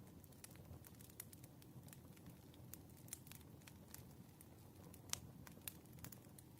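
Campfire crackling faintly over a low steady rumble, with scattered sharp pops, one louder about five seconds in.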